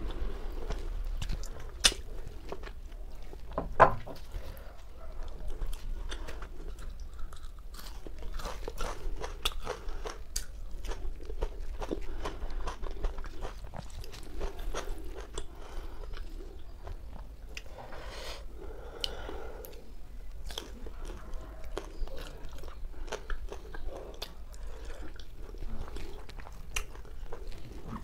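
Close-miked chewing and biting of whole roasted chicken, with wet crunching and crackling as the meat and skin are pulled apart by hand. A couple of sharper, louder clicks come in the first few seconds.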